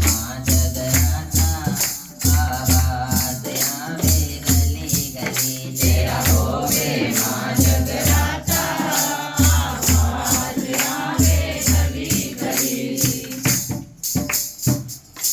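Devotional bhajan music: a steady drum beat with fast jingling percussion, and voices singing along. The music thins out near the end.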